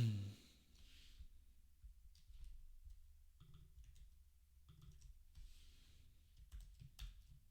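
A few scattered clicks of a computer keyboard, opening with one louder knock.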